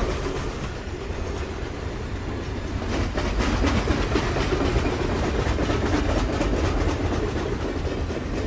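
Freight train rolling by: a steady rumble with wheels clicking over the rail joints.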